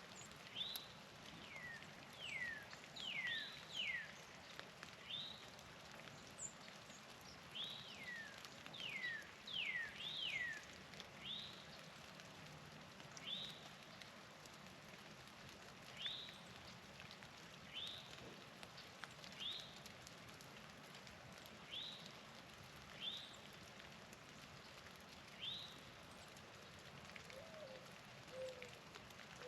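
A songbird calling over and over, short whistled notes that each slide sharply downward, some in quick pairs and more thickly in the first half, over a steady outdoor hiss. A faint low wavering call comes near the end.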